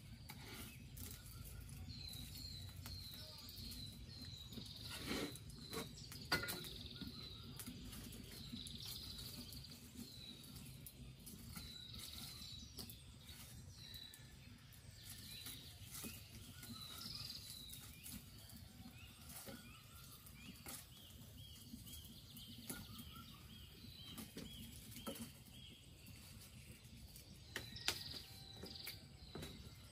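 Birds chirping in runs of short, high, repeated notes over a quiet rural background, with a few sharp clicks and knocks.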